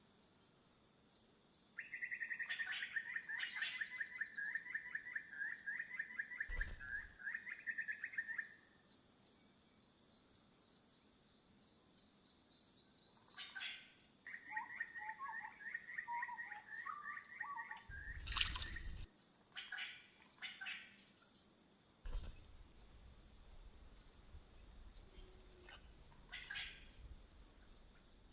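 Wild birds calling: a long run of rapid chattering notes begins a couple of seconds in and a second run comes about fourteen seconds in, with short calls scattered between. Under them a steady high chirp repeats two or three times a second, and there are a few low thumps.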